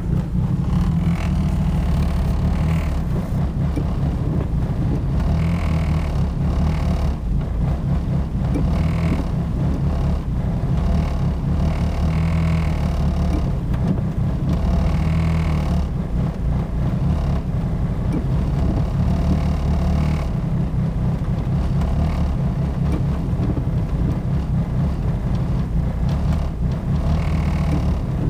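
Turbocharged Ford Focus engine running. The owner says it idles badly and misses under boost even with a new coil pack, and suspects the plug wires or the cylinder 2 fuel injector.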